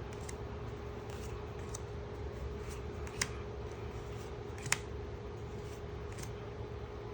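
Pokémon trading cards being handled and flipped through, with faint rustling and a few short clicks; the two sharpest come about three and a quarter and about four and three-quarter seconds in. A steady low hum runs underneath.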